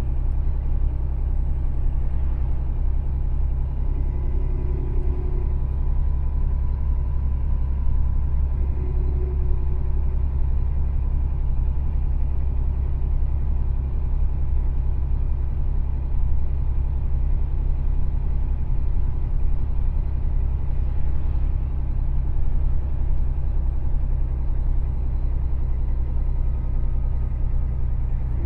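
Mercedes-Benz Actros truck's diesel engine and road noise: a steady, even low rumble.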